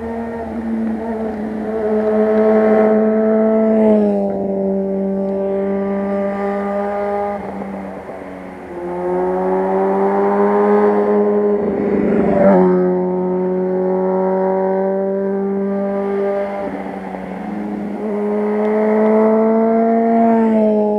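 Honda 600 inline-four sport motorcycle engine running at high revs through corners. Its note holds a steady pitch, drops sharply a few times and climbs back, with a brief rushing swell about twelve seconds in.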